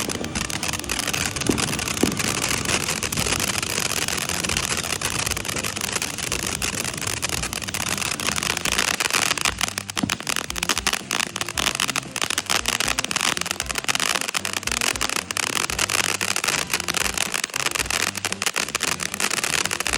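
Ground fountain firework spraying sparks: a steady loud hiss thick with fine crackling, growing louder about halfway through.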